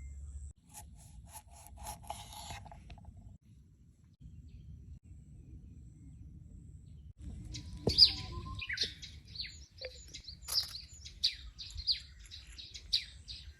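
Birds chirping: a quick run of short, high chirps begins about halfway through and keeps going, over a faint low rumble.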